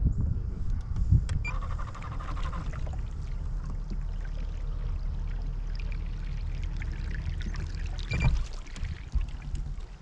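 Water trickling around a kayak over a steady low rumble, with a few small clicks.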